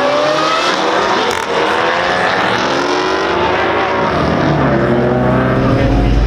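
Several car engines revving and accelerating hard, their pitch climbing in overlapping sweeps. A deep rumble comes in near the end.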